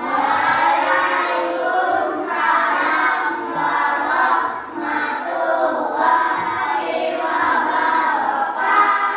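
A group of children singing together in unison, with no break for about nine seconds.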